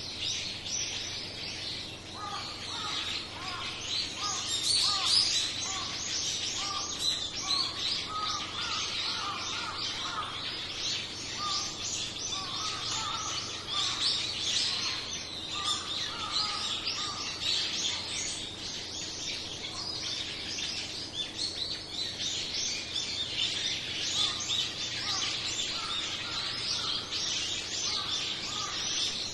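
A flock of small birds chirping and calling over one another in a dense, continuous chatter. A lower call repeats at a steady pace through much of it.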